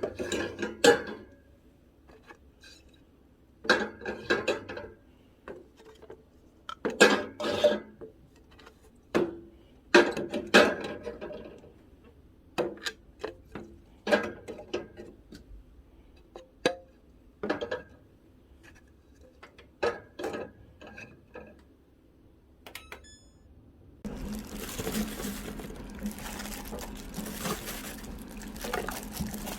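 Kitchen dishes and containers being handled: a run of separate clinks and knocks, some ringing briefly. About 24 seconds in, a steady rushing noise starts and keeps going.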